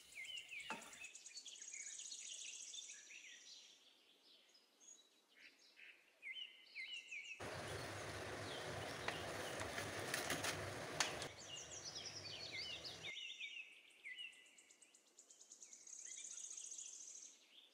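Birds chirping: series of short, quick repeated chirps with high buzzing trills. In the middle, from about seven to thirteen seconds in, a louder steady hiss with a few clicks.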